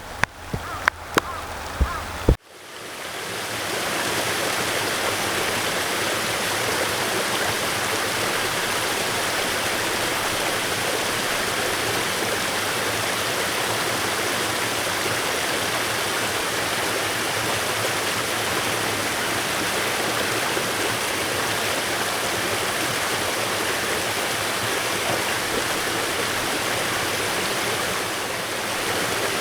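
Steady rushing of water flowing in a stream, fading in about two seconds in and running evenly after that. Before it come a few sharp clicks.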